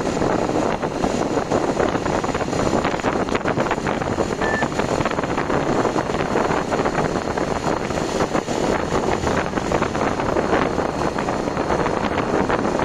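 Wind rushing and buffeting over the microphone during a vehicle ride, over the steady running noise of the vehicle.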